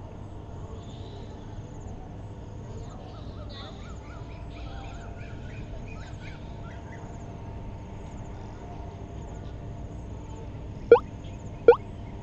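Birds calling at dusk: a run of quick chirping notes through the middle, then two loud, sharp rising calls close together near the end, over a steady low hum.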